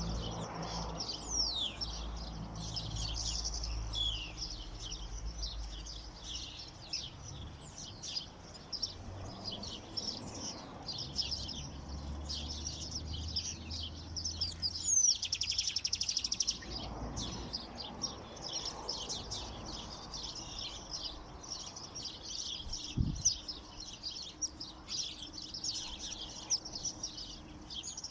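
Many small songbirds chirping and twittering together, calls overlapping without pause, with a buzzier stretch of song about halfway through and a low rumble underneath in the first half.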